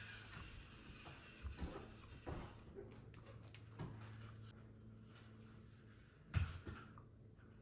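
Eating and handling sounds while peeling and eating large prawns by hand: scattered small clicks and taps, with a louder knock about six seconds in, over a faint steady hum.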